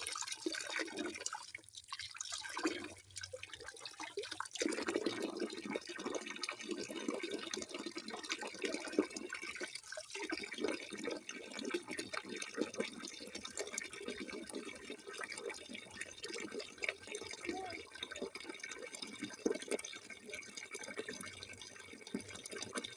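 Running water splashing and trickling steadily, with brief lulls about two seconds in, around three to four seconds in, and near ten seconds.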